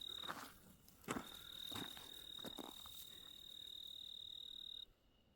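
An insect trilling: one steady high-pitched tone that breaks off briefly near the start, resumes about a second in, and stops suddenly near the end. A few faint soft clicks or rustles are heard under it.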